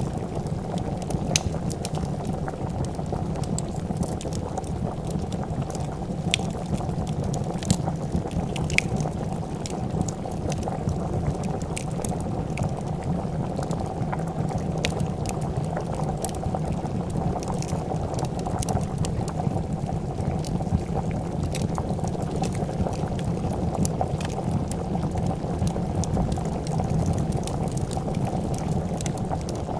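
A pot of soup at a boil, bubbling steadily, with scattered sharp pops and crackles of a wood fire over it.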